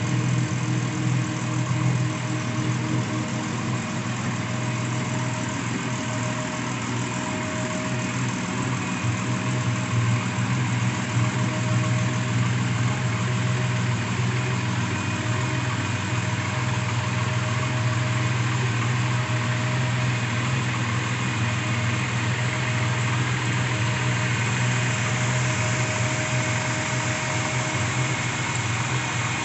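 1998 Chevrolet S10 pickup's modified engine idling steadily.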